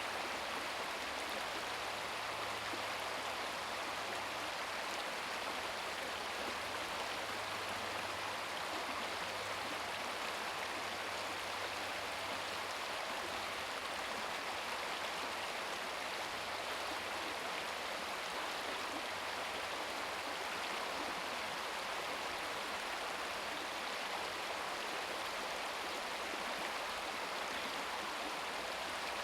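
Shallow brook babbling over stones: a steady, even rush and trickle of running water.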